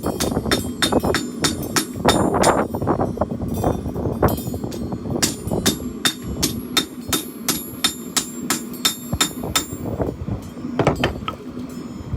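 Hand hammer striking hot steel on an anvil, a run of ringing blows at about three a second, with short pauses between runs.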